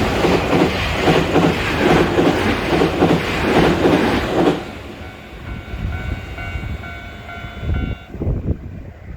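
Nankai Koya Line electric train passing over a level crossing, its wheels clacking over the rail joints in a steady rhythm. The passing noise drops away about four and a half seconds in, leaving the crossing's warning bell ringing on its own until it stops near the end.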